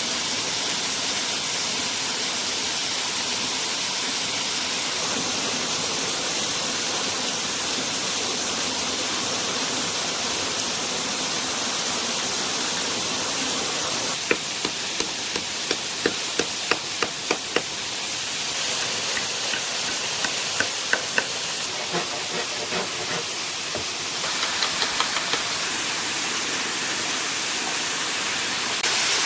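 Steady rush of waterfall water. About halfway through comes a run of sharp knocks, a couple a second, and a few more follow later.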